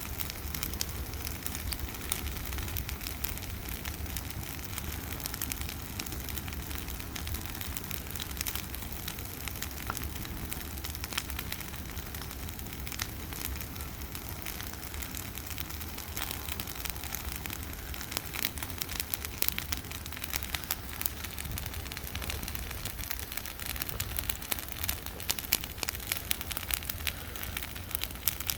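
Bonfire of dry Christmas trees burning, with dense crackling and popping over a steady low rumble; the pops grow louder and more frequent near the end.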